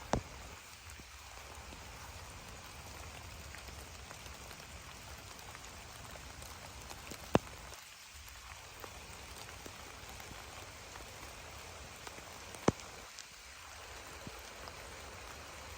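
Steady rain falling on a garden, an even hiss of drops on leaves and ground. Three sharp clicks stand out: one right at the start, one about halfway through and one near the end.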